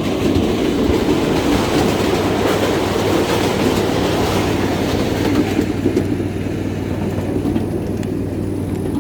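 Wheels of a 7.5-inch-gauge ride-on miniature train rolling along the track, heard from aboard as a steady rumble.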